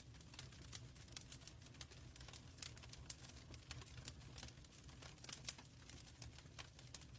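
Wood fire in a fireplace crackling quietly, with many irregular sharp pops and snaps over a faint low rumble.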